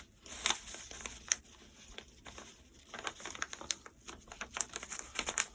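A sheet of paper being handled and folded: irregular crinkles and rustles as the corners are creased into a triangle, getting busier near the end.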